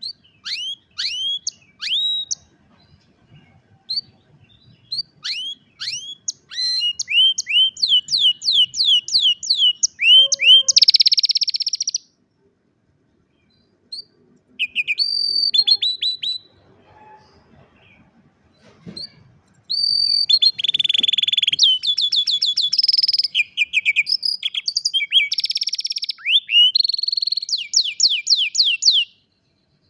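Domestic canary singing: series of falling whistled notes and fast trills, with buzzy rolls, in two long phrases with a pause of several seconds between them.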